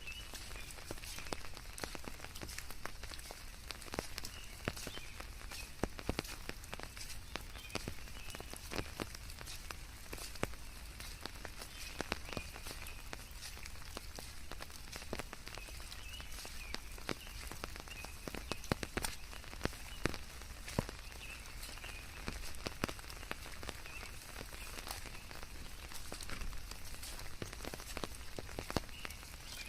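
Steady rain in a forest, with many separate drops pattering over an even hiss, mixed with white noise.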